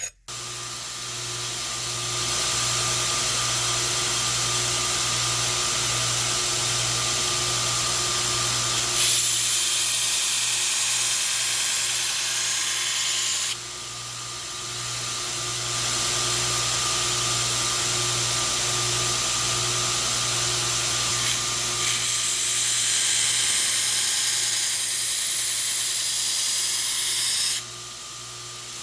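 Belt grinder running steadily as the primary bevels are ground into a hardened and tempered steel blade, its motor hum under a grinding hiss. The hiss turns harsher and louder for a few seconds about nine seconds in, and again for about five seconds later on.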